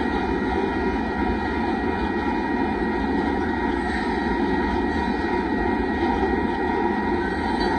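Loaded rock cars of a Union Pacific freight train rolling steadily past: a continuous rumble of steel wheels on rail.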